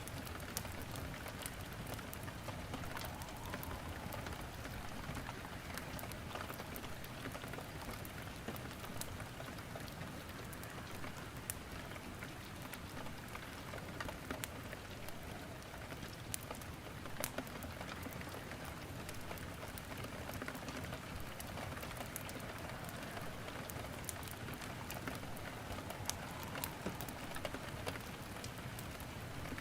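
Steady rain hissing, with burning firewood crackling in a fireplace: scattered sharp pops over the even rain.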